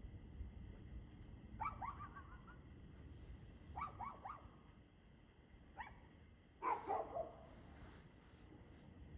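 A dog barking in short bursts of two to four quick barks, with the loudest burst about seven seconds in.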